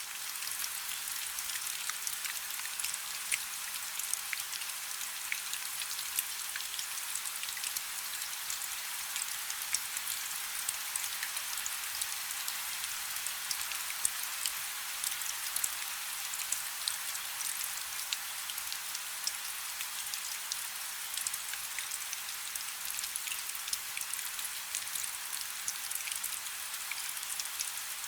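Steady rain falling on a river: a constant hiss of rain dotted with many small crisp drop ticks.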